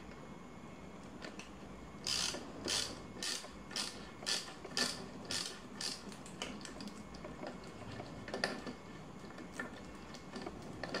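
Ratchet tool clicking in a run of about eight strokes, roughly two a second, as a bicycle pedal is threaded into the crank arm, then a few scattered clicks.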